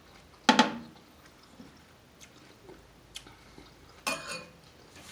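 Close-miked chewing and mouth sounds of eating, with a short loud smack or slurp about half a second in and another about four seconds in, and faint clicks between.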